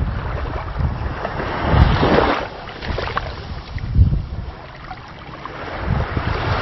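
Wind buffeting the microphone in gusts: a rough rushing noise with low rumble that swells and drops, easing off about five seconds in before rising again.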